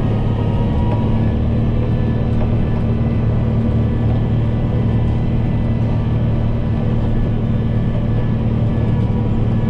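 Kubota M7060 tractor's four-cylinder diesel engine running steadily under load, a constant low drone.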